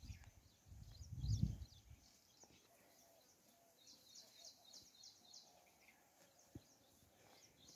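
Faint outdoor quiet with a brief low rumble on the microphone about a second in. Around the middle comes a quick run of faint, high, short chirps from a small bird.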